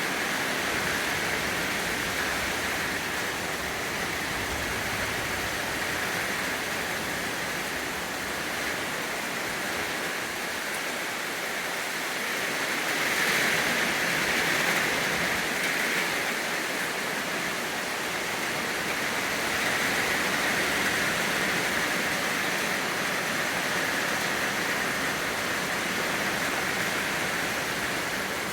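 Steady rainfall, a dense even hiss that swells slightly a couple of times.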